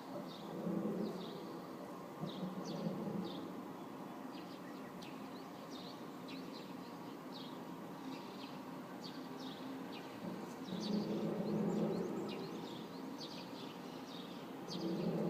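Short bird chirps repeating throughout, over a low humming drone that swells up and fades away about four times, each swell lasting a second or two.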